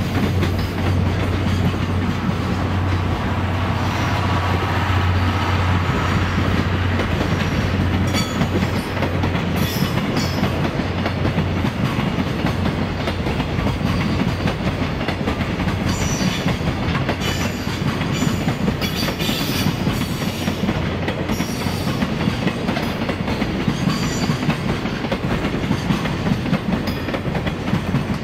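Train running by: a steady rumble with wheels clattering over rail joints as the lit passenger coaches pass. From about 8 s in, short high wheel squeals come several times.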